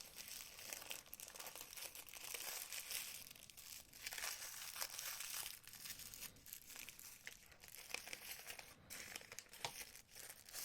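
Packaging crinkling and rustling as it is handled, with many small irregular clicks.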